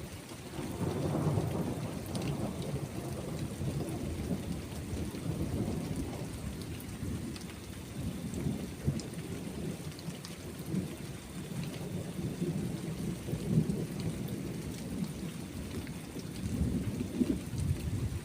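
Rolling thunder rumbling low and long over steady rain, swelling about a second in and again near the end, with scattered raindrop ticks.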